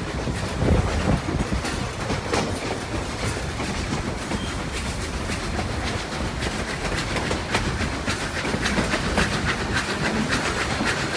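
Narrow-gauge railroad cars rolling along the track, with a steady rumble and rapid, irregular clicking of steel wheels over the rails.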